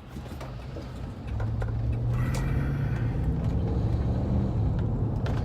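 Car engine and road noise heard from inside a moving vehicle's cabin. The low engine hum grows louder about a second in.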